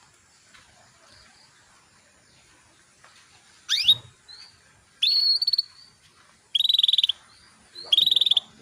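Female canary calling: after a few quiet seconds, a quick upward-sweeping note, then a short high whistled note and two brief, rapid, high trills.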